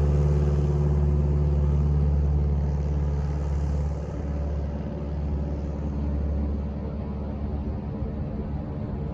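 Light aircraft's piston engine and propeller running steadily at high power, easing off somewhat about four seconds in.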